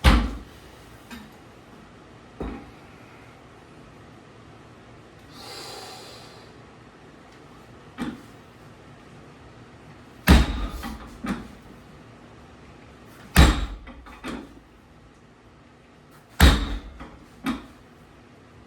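Loaded trap bar's weight plates touching down on the floor between deadlift reps: heavy thuds, each followed by a short rattle. The biggest come about every three seconds in the second half.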